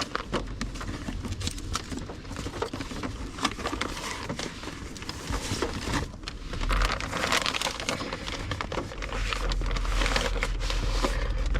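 Paper stationery being handled: index cards and papers rustling, with small taps and clicks as they are shuffled and stacked. A low steady rumble joins about halfway through.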